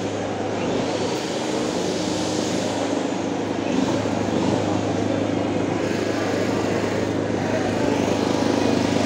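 A steady engine drone, holding one even pitch, over the general bustle of a busy market.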